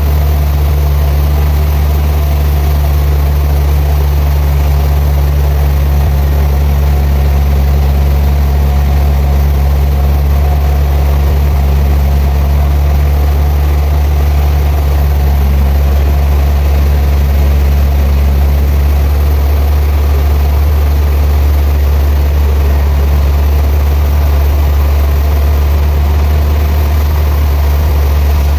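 A heavy engine running steadily at a constant speed, with a deep, unchanging drone.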